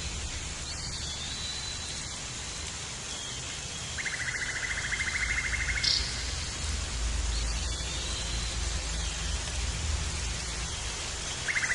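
Forest ambience: a steady hiss with a rapid buzzing trill lasting about two seconds, starting about four seconds in and ending in a brief high note, then starting again near the end, with fainter high calls in between.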